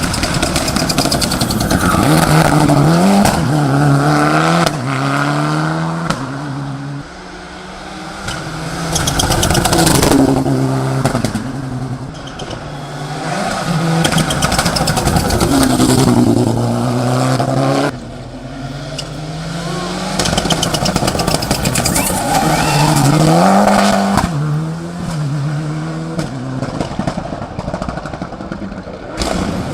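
Mitsubishi Lancer Evolution VI race car's turbocharged four-cylinder engine revving hard under full throttle, its pitch climbing and then dropping again and again through the gear changes. The sound changes abruptly a couple of times between runs.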